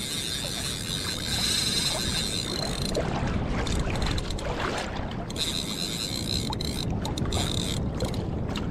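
Fishing reel drag whining as a hooked fish pulls line off, in two long runs, over steady wind and water noise around the kayak.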